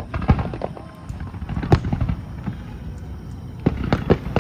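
Aerial fireworks bursting: an irregular string of booms and crackling reports, with the loudest bangs about two seconds in and a cluster of them near the end.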